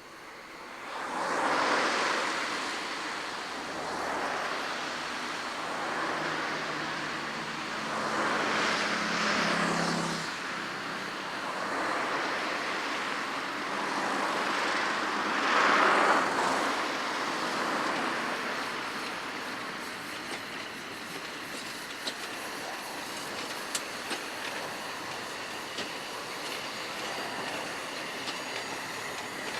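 A narrow-gauge (760 mm) steam train passing: three loud rushing surges of noise come in the first half, then a steadier run with the carriage wheels clicking over the rail joints.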